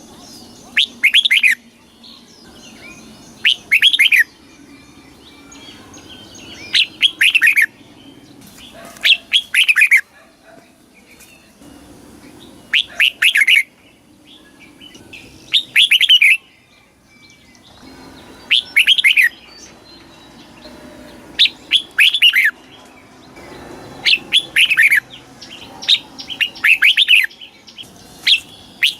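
Red-whiskered bulbul singing: short, loud phrases of a few quick falling whistled notes, repeated about every two and a half to three seconds.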